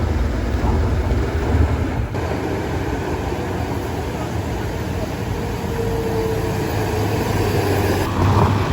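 A vehicle engine running steadily, with most of its sound in a low rumble.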